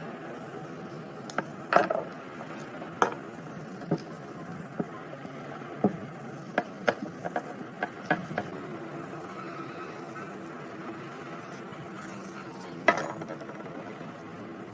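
Scattered sharp clicks and knocks of small parts and hand tools being handled, a dozen or so, the loudest about two seconds in and near the end, over a steady low hum.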